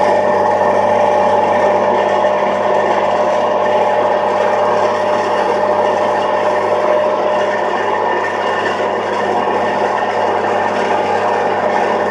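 Landini Landpower 145 tractor's diesel engine running steadily under load, pulling a plough through a field.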